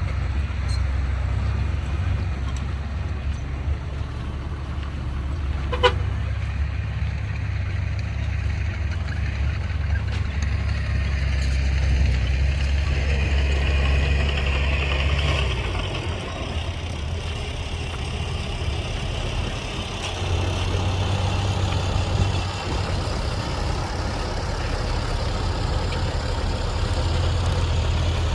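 Heavy diesel engines of construction machinery running, a low steady drone that drops and changes about 16 and 20 seconds in. A short sharp high tone sounds once about six seconds in, and a hiss rises in the middle of the stretch.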